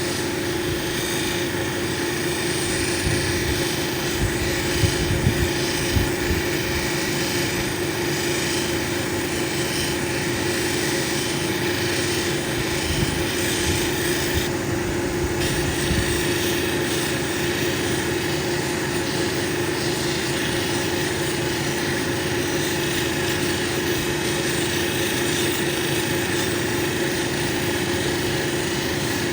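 Cabbing machine's motor running steadily with a constant hum while an opal cabochon is worked on its 3000-grit wheel. A few dull low bumps come between about three and six seconds in.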